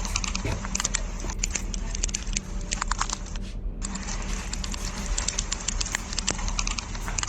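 Termites at work inside an infested structure, making a dense, irregular crackle of tiny clicks and ticks with a steady low hum beneath.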